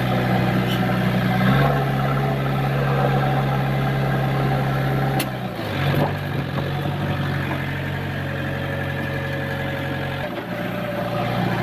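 Diesel engine of heavy machinery running at a steady speed. Its pitch shifts abruptly about two seconds in, again around six seconds in, and once more near the end.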